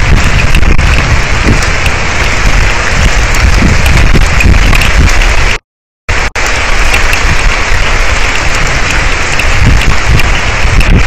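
Heavy thunderstorm rain pouring steadily on and around an outdoor camera microphone, with a low rumble underneath. The sound cuts out completely for about half a second just past the middle, then the rain resumes.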